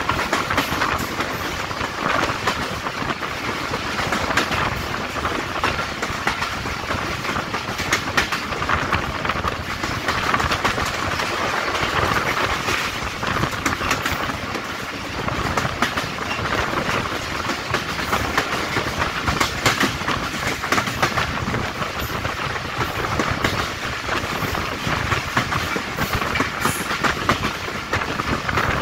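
PT INKA passenger coaches of a diesel express train running at speed, with a continuous rumble and rattle. The wheels clatter over the rail joints throughout.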